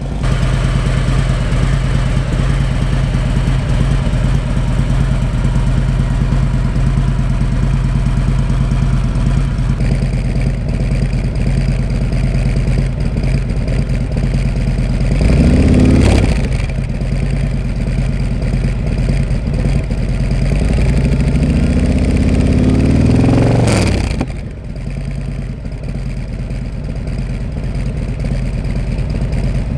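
Harley-Davidson Milwaukee-Eight 114 V-twin, stage one, idling through a Bassani Road Rage 2-into-1 exhaust with the baffle in. About halfway through it is blipped once, and later it is revved up more slowly before dropping straight back to idle.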